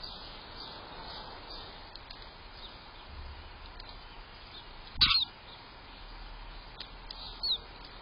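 Small garden birds chirping over a steady hiss, with a sharp knock and a loud chirp about five seconds in and another short chirp a couple of seconds later.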